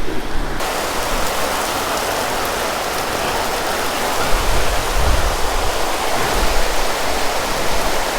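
Heavy monsoon rain pouring down, a dense, steady hiss that thickens about half a second in.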